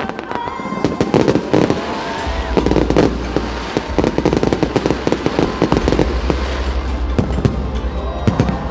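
Fireworks display: a dense run of rapid crackling and popping bursts, with a few short whistling glides among them.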